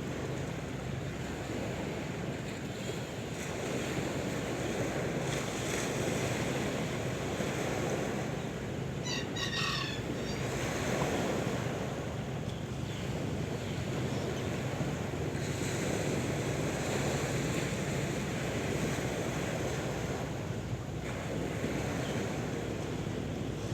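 Sea waves washing on a shore, a steady surf hiss that swells and eases. About nine seconds in, a short high chirping call sounds briefly over the surf.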